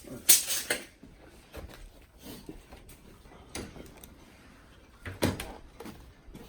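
A few sharp knocks and scraping clatters of objects being handled, a cluster in the first second, single knocks in between, and another loud knock about five seconds in.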